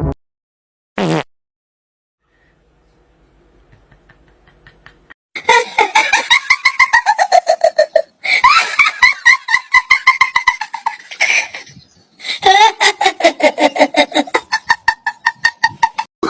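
Hearty laughter in rapid pulsing bursts, in three long stretches with brief pauses between them, after a short falling swoop about a second in.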